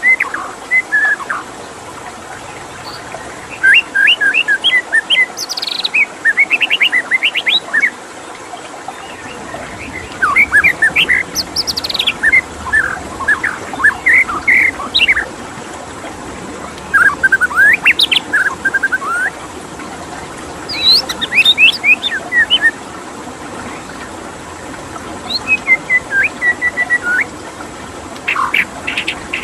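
White-rumped shama singing in separate phrases of quick, varied whistles and trills with short pauses between them, over the steady sound of running water.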